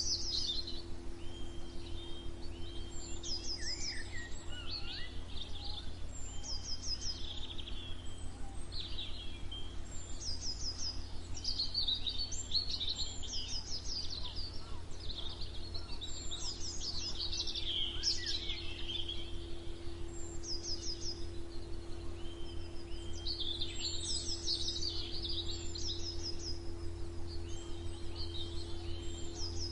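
A chorus of songbirds chirping and singing, with overlapping short calls and quick repeated trills, over a steady low hum.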